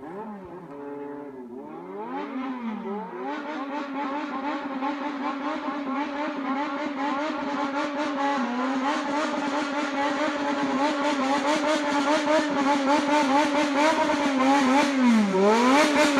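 Yamaha XJR400 inline-four motorcycle engine revved by hand in a Japanese 'call' rhythm. It starts with a few rev swoops up and down, then holds high revs with a fast, even throttle flutter, dipping briefly twice and growing louder toward the end.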